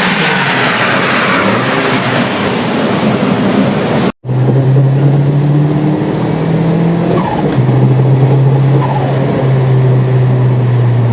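Renault 5 turbo rally car engine: the engine note falls away over the first few seconds as the car goes past. After a sudden cut, the engine runs at steady revs and drops to a lower steady note about two-thirds of the way through.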